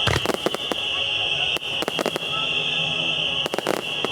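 Starmine aerial fireworks going off in clusters of sharp bangs and crackles: a group near the start, another at about two seconds and a last group near the end. A steady high-pitched whine sits under them throughout.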